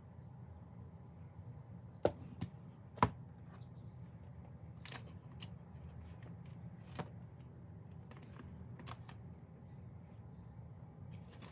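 Handling sounds from an unboxing: a scatter of sharp clicks and taps from objects and packaging being picked up and set down, the loudest three close together a couple of seconds in, over a steady low hum.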